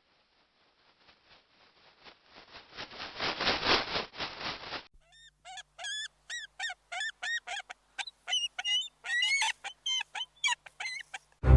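A raspy, rapidly pulsing sound that builds up over a few seconds, then a goose honking repeatedly in short, separate calls.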